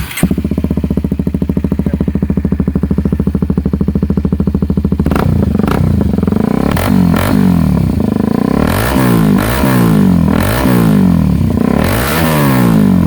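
Kawasaki Ninja 250SL single-cylinder engine starting up through an aftermarket SC Project exhaust and idling with an even, fast beat. From about five seconds in it is blipped several times, the revs rising and falling.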